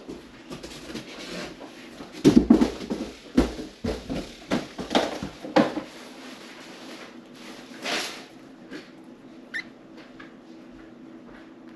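Budgies pecking at and cracking millet seeds: a run of crunchy clicks and rustles, busiest between about two and six seconds in. A single short chirp comes near the end.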